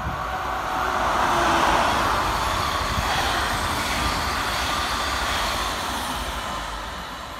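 SJ X2000 electric high-speed train running through at speed: a rush of wheel and air noise that swells to its loudest about two seconds in, holds while the carriages go by, then fades away.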